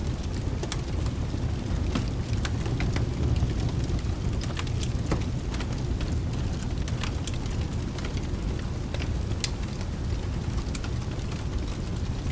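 Mixed rain-and-fireplace ambience: a steady low rush of rain under irregular sharp crackles and pops of a wood fire, several a second.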